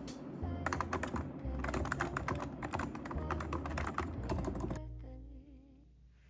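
Typing on a computer keyboard: quick runs of key clicks with short pauses, stopping about five seconds in.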